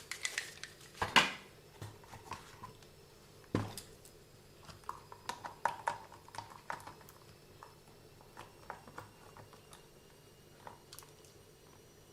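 Small hard parts of an RC car differential clicking and clinking as they are handled. There are irregular light taps throughout, with sharper knocks about a second in and again about three and a half seconds in.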